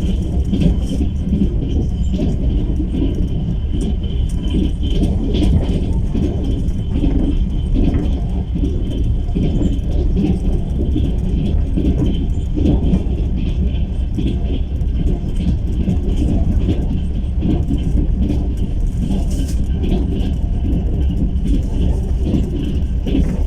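Steady rumble of a moving passenger train heard inside a sleeper carriage, with a thin high whine held throughout.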